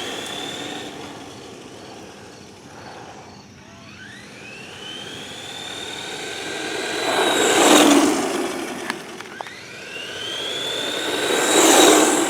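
Redcat Volcano EPX RC truck's brushed electric motor whining up in pitch as it accelerates, twice, levelling off high. Tyre and drivetrain noise swells loudly as the truck passes close, about 8 seconds in and again near the end.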